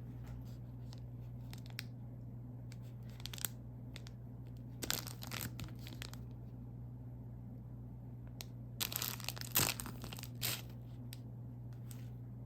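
Plastic snack wrapper being crinkled and torn open, in several short bursts of rustling, the loudest about nine to ten seconds in. A steady low hum runs underneath.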